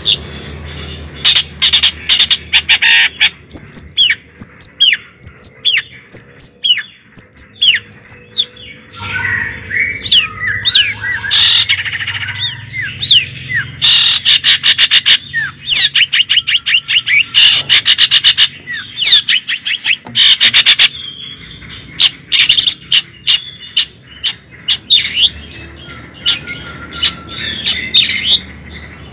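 Birds chirping and calling: many short, sweeping chirps and whistles, broken by several bursts of rapid clicking chatter.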